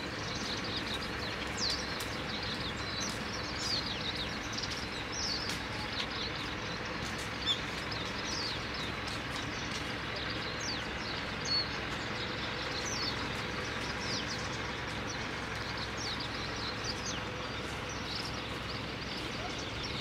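Small birds chirping in the flowering cherry trees: many short, high, falling calls scattered throughout, over a steady outdoor background noise.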